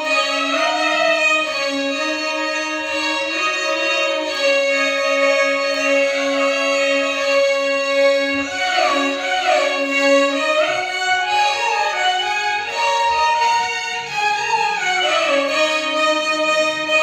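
A violin ensemble playing Carnatic music: a low note held steadily under melody lines that slide and bend between notes, with the sliding runs busiest about halfway through and again near the end.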